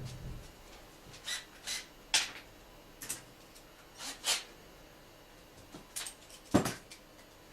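Irregular short clicks, clinks and scrapes of hand tools and parts being handled during car repair work, with the loudest knock about six and a half seconds in.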